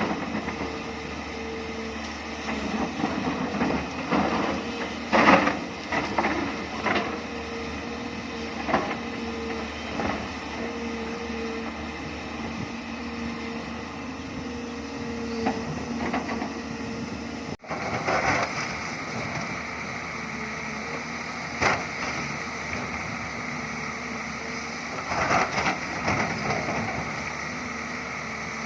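Hyundai crawler excavator running with a steady hum, with scattered knocks and clatters of the bucket working limestone rock.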